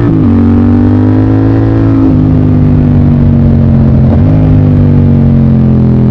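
Motorcycle engine pulling hard while riding, its note climbing slowly and dropping suddenly three times as it shifts through the gears.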